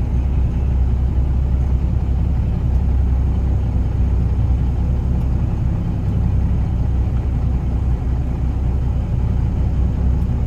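Peterbilt 359 semi truck's diesel engine running at low speed as the truck pulls slowly forward, a steady deep rumble.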